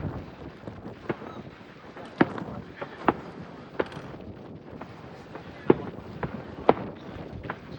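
Fireworks going off: a string of sharp bangs at uneven intervals, about eight in all, over a steady background hiss. The loudest bangs come about two seconds in and twice in the last third.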